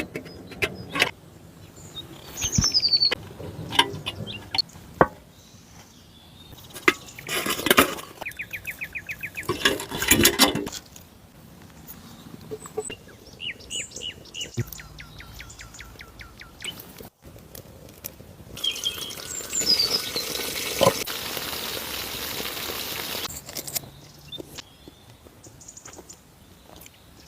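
Birds chirping and calling, mixed with scattered knocks and handling clicks and a fast run of even ticks. About two-thirds of the way through there is a few seconds of steady hiss.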